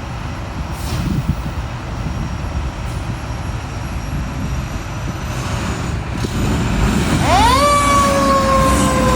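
A low, steady rumble of heavy vehicle engines and traffic. About seven seconds in, a fire engine's siren winds up quickly to a high wail and then starts to fall slowly in pitch, louder than everything before it.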